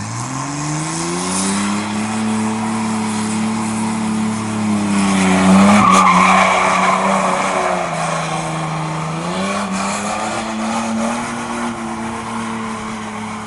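Race truck engine revving up at once and held at high revs. Around six seconds in there is a louder rush of tyre and engine noise, and the revs dip and pick up again near the nine-second mark.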